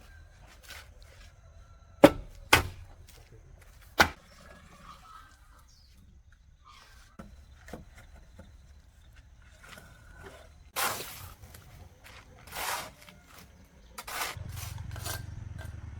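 Three sharp knocks in quick succession, then two short scraping sounds, and a low steady hum that starts near the end.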